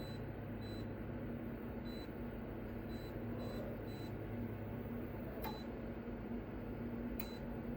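Portable ceramic space heater running with a steady fan hum, with faint short high beeps every second or so and a few sharp clicks in the second half.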